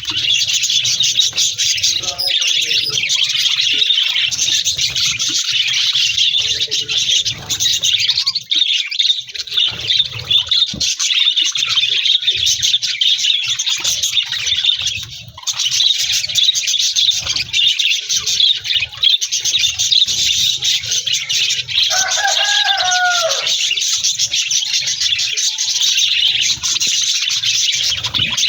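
Budgerigars chattering and warbling, a dense, continuous twittering that thins briefly about halfway through. About 22 seconds in, a louder, lower call with a bending pitch stands out above the chatter.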